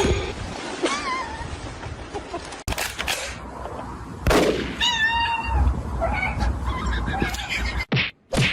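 Short animal calls with a wavering pitch: a brief one about a second in and a stronger one about five seconds in, over background noise that cuts off abruptly twice.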